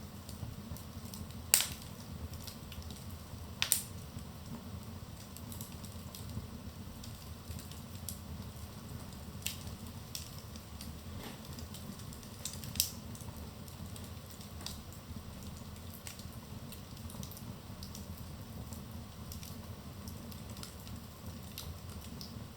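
Wood fire burning in a fireplace: a steady low rumble of flames with scattered crackles and pops, the sharpest snaps about a second and a half in, near four seconds in, and about thirteen seconds in.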